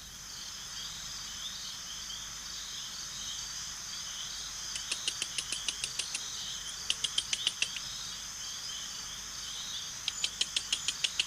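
Night-time rainforest insect chorus: a steady, high chirring, with runs of rapid sharp clicking pulses about five, seven and ten seconds in.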